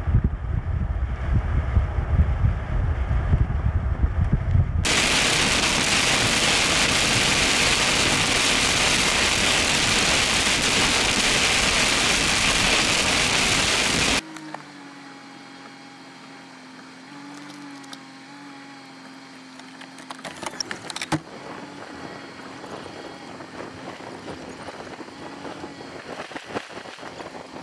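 Wind buffeting and low road rumble from inside a moving car. Then heavy rain pours down on the car for about nine seconds as a loud, even hiss, and cuts off suddenly. After that comes a much quieter stretch with a steady low hum and a few scattered clicks.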